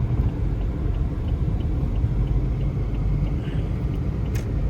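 Steady low road rumble of a car driving, heard from inside the cabin, with a short sharp click near the end.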